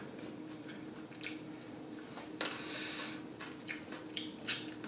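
Faint wet chewing and mouth clicks of someone eating chicken wings, a few short smacks scattered through, over a steady low hum.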